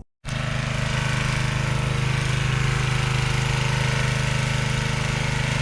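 Built, turbocharged Nissan RB-series straight-six in a Datsun 240Z idling, with a fast, even, choppy pulse.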